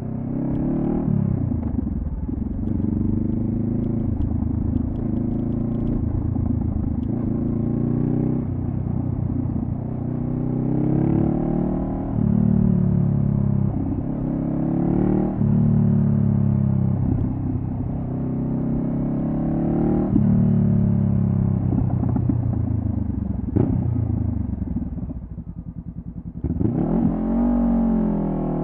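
2014 Honda CB500F's parallel-twin engine through a Delkevic carbon slip-on exhaust, accelerating through the gears: the pitch climbs and drops sharply at each upshift, again and again. Near the end it falls back to a low, quieter run for a second or two, then pulls away again.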